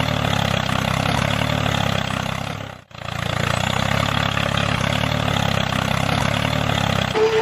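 Engine idling steadily, with a brief dropout about three seconds in. A steady high tone joins near the end.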